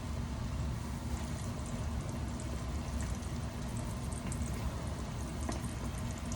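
Chicken wings frying in hot oil: a steady sizzle with scattered small pops and crackles.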